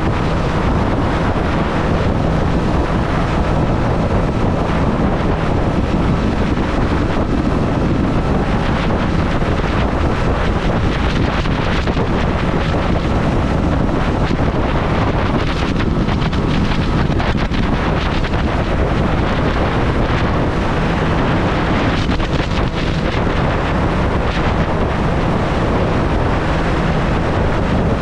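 Heavy wind noise buffeting the microphone while riding a Triumph Street Triple, its inline three-cylinder engine running steadily underneath.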